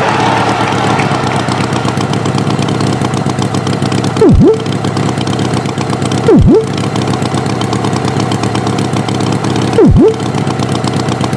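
Engine sound effect of an animated farm tractor running steadily. It is broken three times by a loud, short swooping tone that dips low and swings back up.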